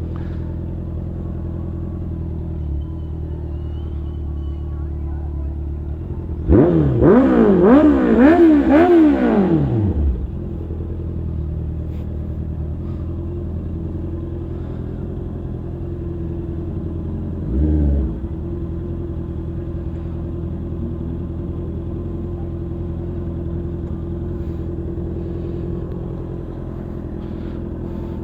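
Sport motorcycle engine idling steadily. About six seconds in it is blipped in a quick run of about five revs lasting some three seconds, then settles back to idle, with one more short rev near eighteen seconds.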